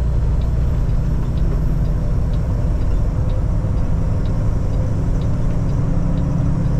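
Semi truck's diesel engine running steadily under load in ninth gear, heard from inside the cab as the driver works up through a manual gearbox. A faint tick sounds about once a second.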